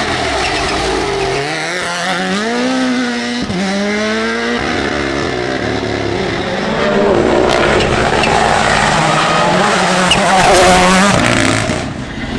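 Rally car engine accelerating hard, its note climbing, breaking at a gear change and climbing again. It then gets louder as the car comes close and goes by, and the sound drops off sharply near the end.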